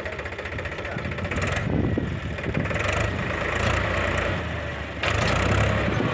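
Diesel engine of heavy farm or earthmoving machinery running steadily, growing louder about five seconds in.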